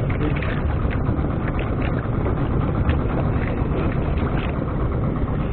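Small fishing boat's engine running steadily at sea, with wind buffeting the microphone in crackling gusts.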